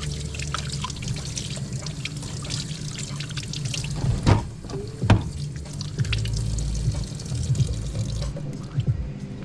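Water running at a kitchen sink with small handling clatter, and two louder knocks in the middle.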